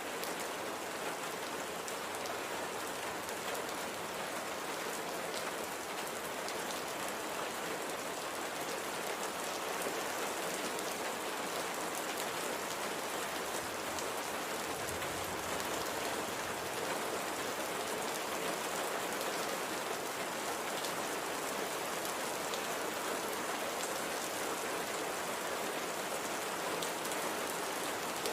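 Steady, gentle rain falling, an even hiss of many fine drops on surfaces with small drop ticks through it.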